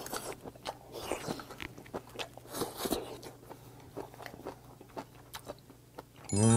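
Close-miked chewing of boiled hagfish, a run of small irregular mouth clicks as the springy meat is bitten and worked. At the very end a short, loud pitched sound cuts in, trailing off in a ringing chime.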